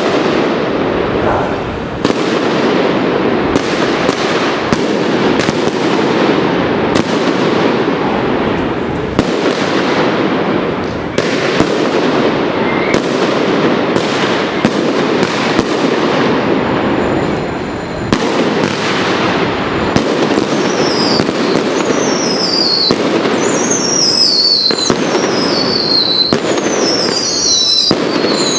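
Mascletà firecrackers going off in a dense, unbroken barrage of sharp bangs. From about two-thirds of the way through, whistling fireworks join in, each whistle falling in pitch.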